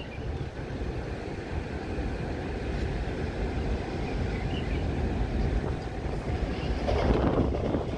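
Taoyuan Airport MRT train running, a steady low rumble that slowly grows louder, with a louder surge about seven seconds in.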